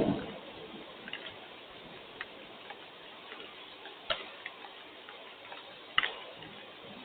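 Steady hiss of rain with irregular sharp ticks of drops landing on a hard surface, two of them louder about 4 and 6 seconds in. A dull thump comes right at the start.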